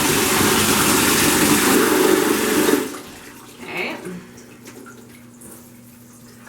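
Detachable handheld shower head on a powerful spray setting, spraying water onto a cloth diaper held in a bucket. The spray is a loud steady hiss and cuts off suddenly about three seconds in, leaving only faint drips and handling sounds.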